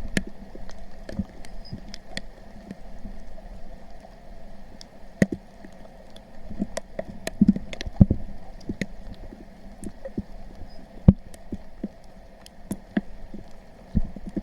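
Irregular splashes, squelches and knocks of someone wading and stepping through a shallow, muddy stream while hunting frogs, over a steady faint background drone.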